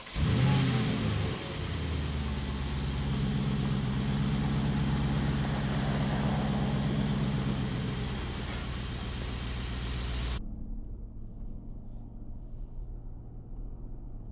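Mercedes-Benz G-Class engine starting: it flares up briefly as it catches, then settles into a steady idle. About ten seconds in, it cuts to a quieter, steady engine-and-road rumble.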